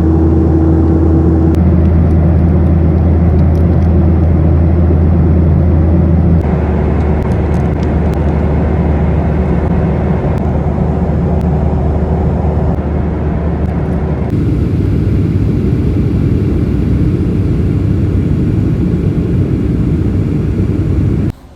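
Airliner cabin noise: the jet engines and airflow make a loud, steady drone with a low hum. It changes abruptly twice, at the cuts between clips.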